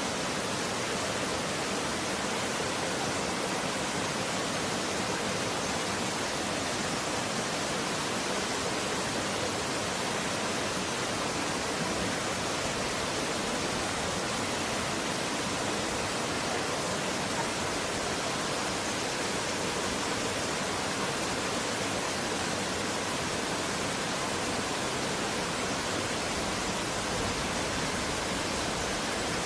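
Running water flowing steadily: an even, unbroken rushing hiss with little low end.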